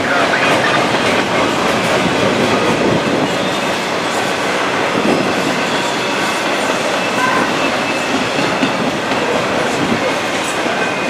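CSX intermodal freight train's double-stack well cars rolling past: a steady, loud noise of steel wheels on rail that holds even throughout.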